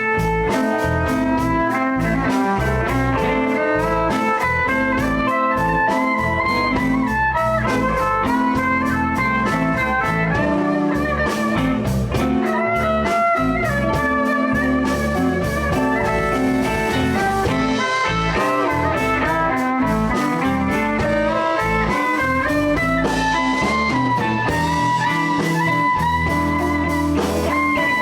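Live blues band playing: guitars over bass and a steady drum beat.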